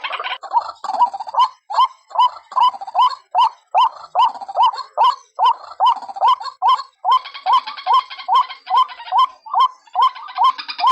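White-breasted waterhen (ruak-ruak) calling, a steady run of short rising notes at about three a second. This is a recorded lure call, played to draw wild waterhens in.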